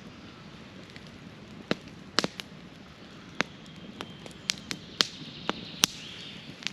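Campfire crackling, with about ten sharp, irregular pops and snaps from the burning wood.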